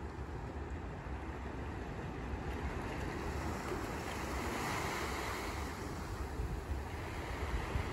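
Sea waves washing onto a beach, one wave swelling and fading about halfway through, with wind rumbling on the microphone.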